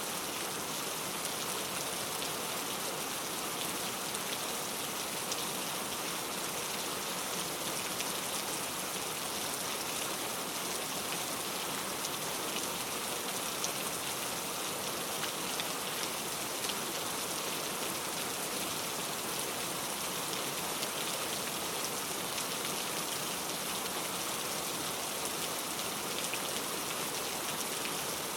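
Steady heavy rain without thunder, with many small drops pattering on a surface.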